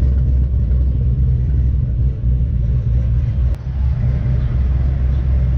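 A loud, steady low rumble with a brief dip about three and a half seconds in.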